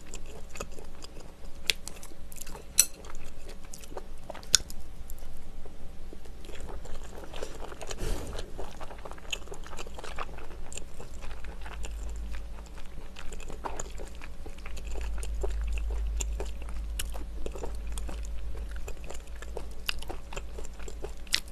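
Close-miked chewing and wet mouth sounds of a person eating rice topped with salted squid, with many small sharp clicks throughout.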